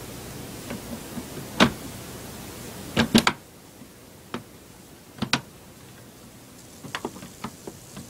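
Plastic clicks and knocks as a laptop's top case is laid over the base and settled into place. The loudest is a quick cluster of three knocks about three seconds in, with single clicks before it and small groups of clicks later on.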